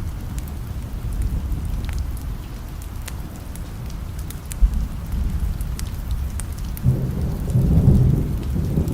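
Steady rain with scattered light ticks of drops, over a low rumble of thunder; a louder roll of thunder builds from about seven seconds in.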